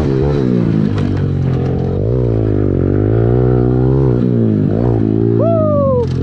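Dirt bike engine running hard, its pitch rising and falling as the rider works the throttle and gears. Shortly before the end, a second, higher engine note falls away, like another bike going past.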